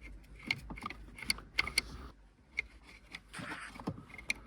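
Scattered light metallic clicks and taps, with a short scraping rustle about three and a half seconds in: screws and hand tools being handled while fastening the parking brake cables.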